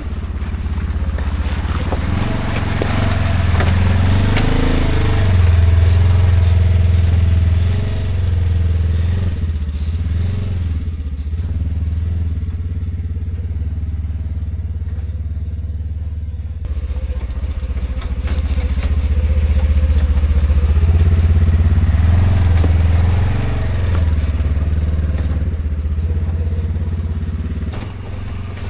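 Side-by-side utility vehicle's engine running as it drives, its note rising and easing as the revs change, loudest twice.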